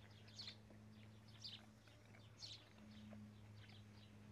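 Near silence: a small bird chirping faintly about once a second, each call a short high downward chirp, over a low steady hum.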